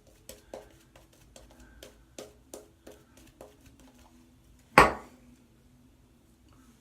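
A run of short, quick shaving strokes on the neck, about two or three a second, followed a little before five seconds in by a single sharp knock, the loudest sound, that rings out briefly.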